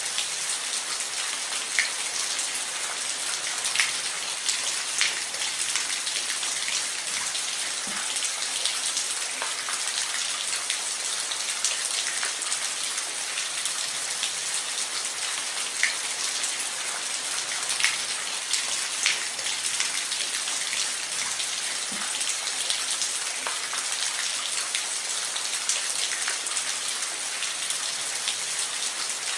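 Steady rain falling on a roof: an even hiss of rainfall with scattered louder individual drops ticking through it.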